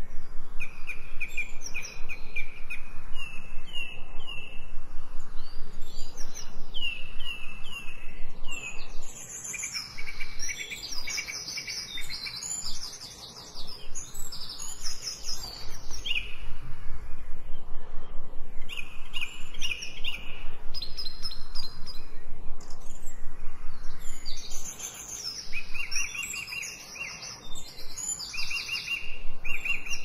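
Songbirds singing: several birds overlap with quick runs of short, high, repeated chirping notes and trills, thinning out briefly twice.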